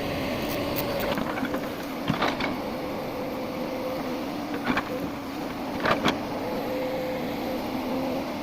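Excavator diesel engine running steadily, with a few sharp knocks about two, four and a half and six seconds in.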